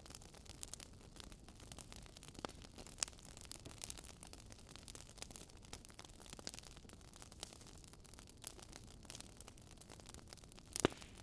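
Faint crackling wood fire: irregular small pops and snaps over a low steady hiss, with one sharper pop near the end.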